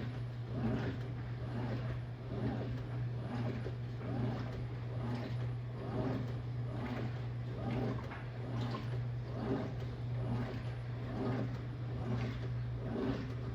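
Electrolux LTM16 washing machine in its wash cycle, running over a steady motor hum while the load of clothes and hot water sloshes in regular surges, roughly one every three-quarters of a second.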